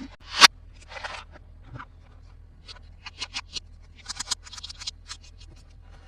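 Toy packaging being handled and opened: a sharp rising rip or swipe about half a second in, a short rustle, then clusters of small crinkling clicks and scratches.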